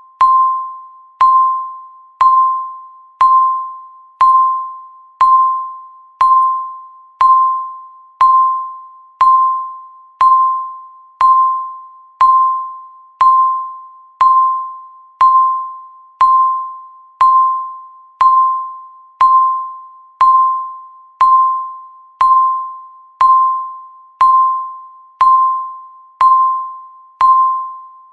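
Countdown timer beeping once every second: a single pitched electronic beep that starts sharply and fades before the next.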